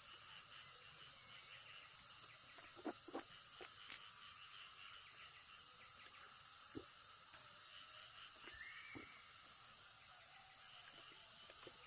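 Steady high-pitched drone of insects in the forest, with a few soft, sharp knocks and taps scattered through it.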